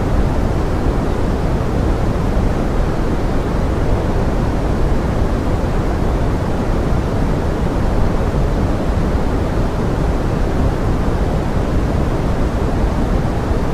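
Steady pink noise in the style of forest rain: an even, deep rushing hiss that does not change.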